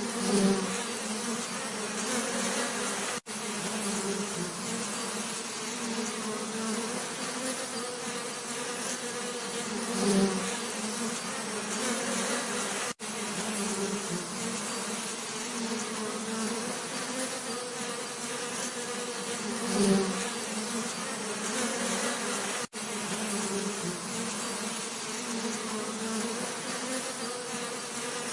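Bees buzzing in a steady, dense hum, swelling louder about every ten seconds as if a bee passes close. The sound drops out for an instant three times.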